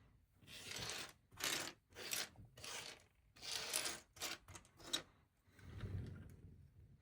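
Plastic LEGO pieces being handled and fitted together: a series of about seven short scraping rattles over the first five seconds, then a duller low rustle.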